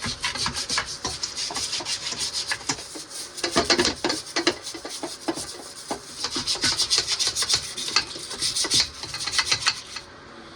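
A stiff brush scrubbing a metal chainsaw part clean in soapy water, in quick rasping back-and-forth strokes that stop near the end.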